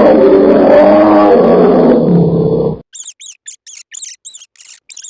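A loud, rough animal cry with a wavering pitch lasts nearly three seconds and stops abruptly. Then a rat squeaks rapidly in short, high chirps, about four a second.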